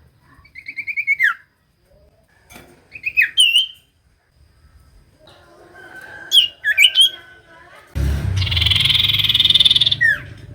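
Common iora calling: a quick run of whistled notes ending in a falling slur, another short phrase rising and then falling, and a few sharp notes. About eight seconds in, a loud harsh hissing sound lasts about two seconds.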